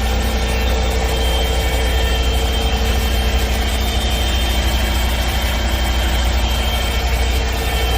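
Heavy truck diesel engine idling steadily, a deep, even rumble.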